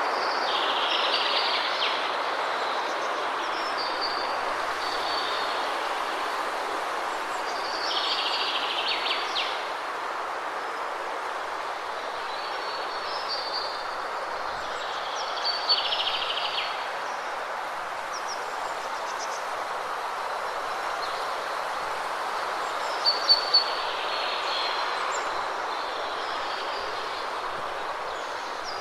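Waterfall rushing steadily, with birds chirping in short high phrases every few seconds over it.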